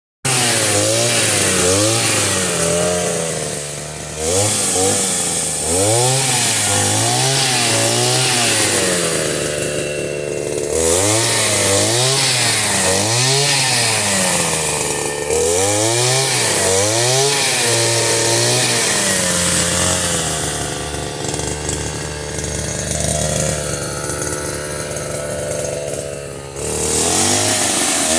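A small engine revving up and down over and over, about once a second, then running more steadily near the end.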